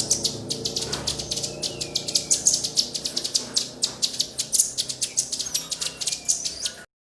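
Small songbirds calling in a fast run of sharp, high-pitched chips and chirps, several a second, with a few brighter whistled notes mixed in; it cuts off suddenly near the end.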